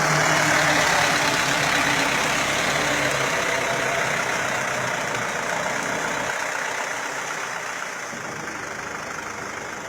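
Mitsubishi Canter truck's diesel engine running, loud at first and gradually getting quieter.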